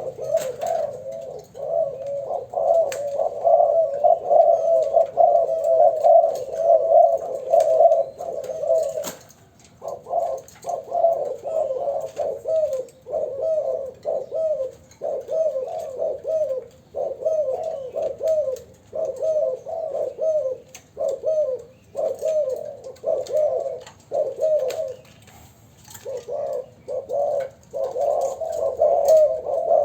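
Young spotted doves cooing over and over in dense runs of low coos, with short lulls about nine seconds in and again near twenty-five seconds.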